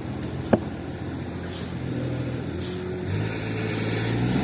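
An engine running steadily, picking up speed and getting louder about three seconds in, with one sharp click about half a second in.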